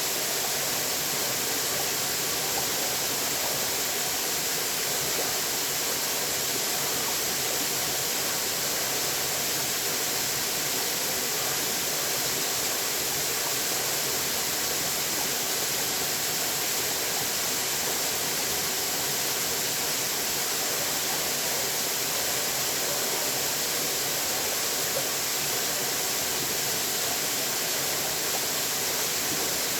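Running water rushing steadily and evenly, with no change or separate events.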